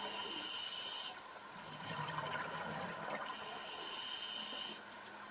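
Muffled water noise from an underwater camera, with two stretches of hiss of about a second and a half each.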